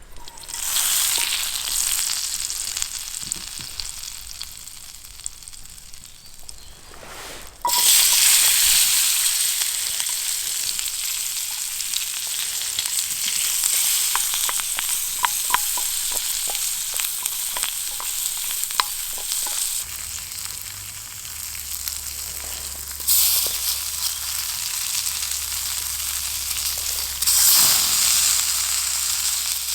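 Food sizzling and frying in a hot pan over a camp fire or stove: a steady hiss with scattered pops, louder after a few abrupt changes in level.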